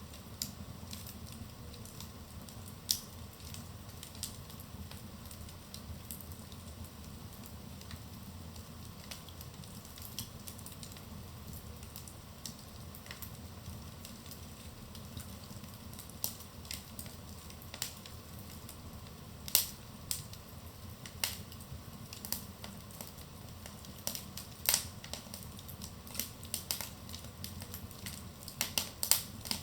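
Wood fire burning in a fireplace: a steady low rumble and hiss with scattered sharp crackles and pops, a few louder snaps about two-thirds through and thicker crackling near the end.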